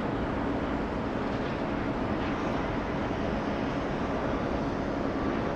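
Steady jet engine noise from a Boeing 757-200 airliner, an even rumble and hiss with a faint hum that holds level throughout.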